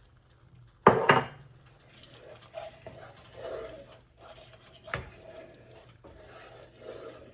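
A utensil stirring Parmesan into cream sauce in a skillet: soft scraping and swishing, with a sharp clank against the pan about a second in and a lighter tap near five seconds.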